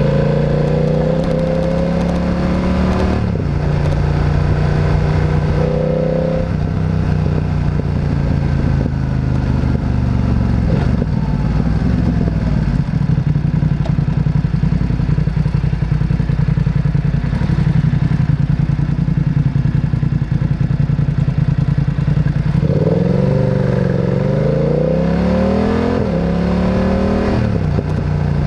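Motorcycle engine running under the rider, dropping revs twice early on, then running steadily for a long stretch before several rising and falling revs near the end as the bike accelerates through the gears.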